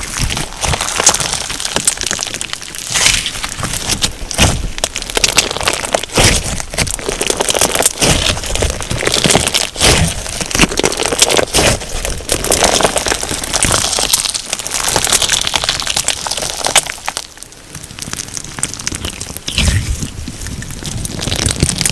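Crunch slime filled with sugar beads being squeezed and pressed by hand, giving dense crackling and popping clicks, which ease off for a moment past the middle.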